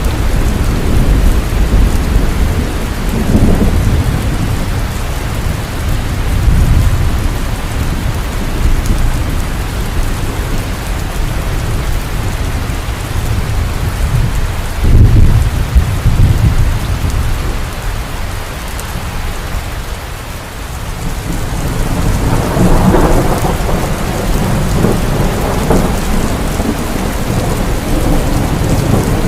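Heavy rain falling steadily, with rolling thunder rumbling low several times over it: a sharper, louder peal about halfway through and a long rumble through most of the last third.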